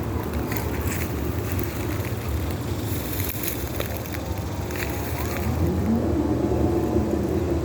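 DGNO diesel-electric locomotives running with a steady low rumble and a held hum. About five and a half seconds in, a tone rises in pitch and the sound gets a little louder.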